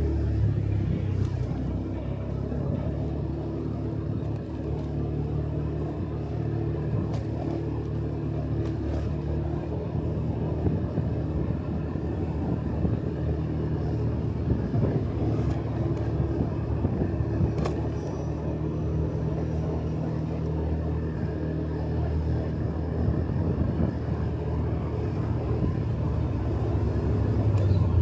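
Motorcycle engine running steadily while riding, with road noise. The engine note holds roughly even, growing a little fuller near the end.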